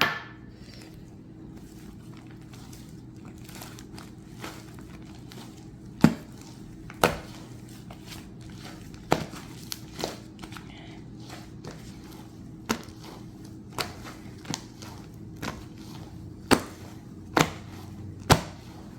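Snow powder being mixed into a large batch of cloud slime: about a dozen short, sharp clicks and taps at irregular intervals, the strongest about six seconds in, over a steady low hum.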